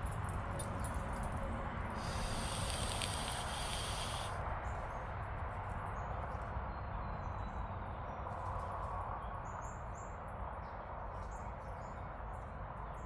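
A dog kicking back dirt and leaves with its hind legs, a scraping rustle about two seconds long starting about two seconds in, over a steady low outdoor background.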